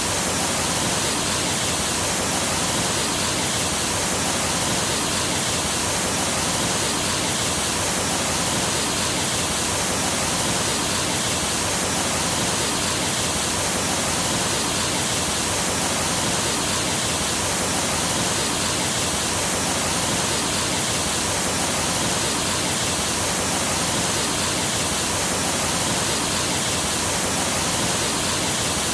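Rushing water of a rainforest stream or waterfall, a steady, unbroken hiss with no separate splashes or changes.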